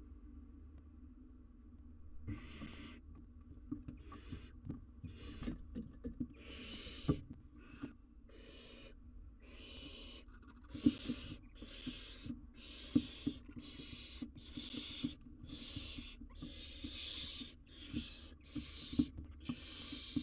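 Barn owl owlets giving their hissing begging calls, a string of breathy hisses that starts about two seconds in and repeats roughly once a second, closer together later on. Small knocks and scrapes sound in between.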